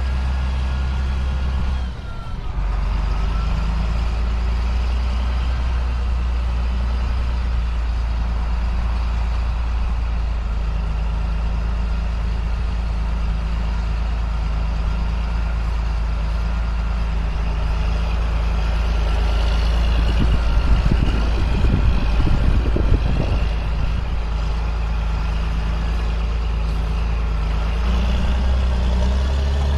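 2005 John Deere sprayer's engine running steadily under way, with a brief dip about two seconds in and a louder, rougher patch of rattling for about three seconds later on.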